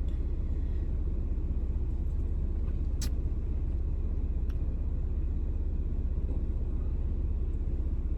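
Steady low rumble of a car engine idling, heard inside the parked car's cabin. A single sharp click comes about three seconds in.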